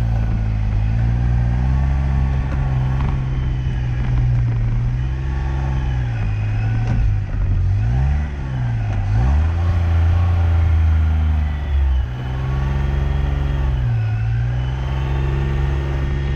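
Liege SS sports car's engine running under way, its revs falling and climbing again several times, about every two to four seconds, as it is driven through changing speeds.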